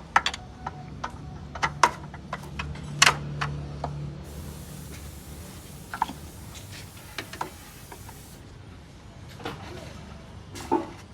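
Metal tools clicking and knocking against engine parts at irregular intervals, with a steady hiss for about four seconds midway and a low hum in the first few seconds.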